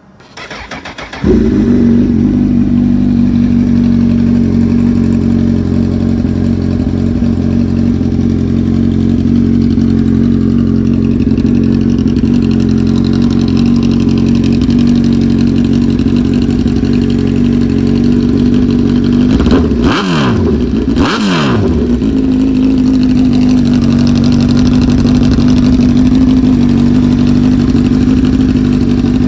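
A 2006 Honda CBR1000RR's 998 cc liquid-cooled inline-four starts about a second in and settles into a steady idle. About two-thirds of the way through it is revved twice in quick succession, the pitch rising and falling each time, then it drops back to idle.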